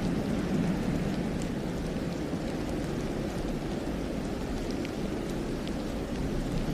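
Steady low rushing of wind through a snowy pine forest, with a few faint soft ticks scattered over it.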